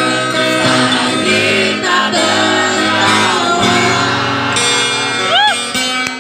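A woman singing a sad song to acoustic guitar accompaniment.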